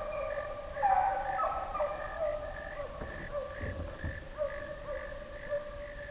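A pack of deer hounds baying on a trail: several drawn-out, overlapping cries keep going, slowly fading. A brief low bump comes about four seconds in.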